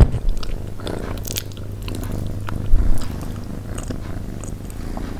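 Close-miked chewing of soft steamed yellow pumpkin: scattered wet mouth clicks and smacks.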